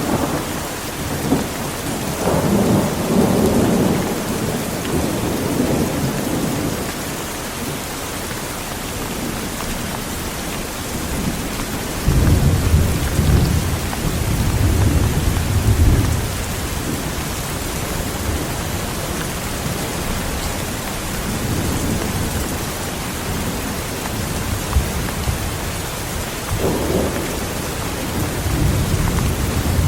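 Heavy rain falling steadily, with rolling thunder: a rumble a couple of seconds in, a stronger, deeper one from about twelve to sixteen seconds, and another building near the end.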